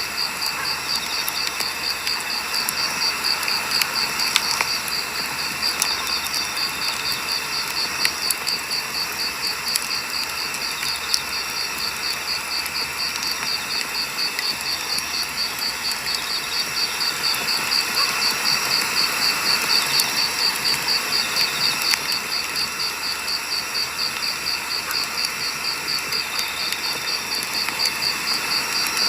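Firewood burning with scattered sharp crackles and pops, over a steady high chirping of insects pulsing a few times a second.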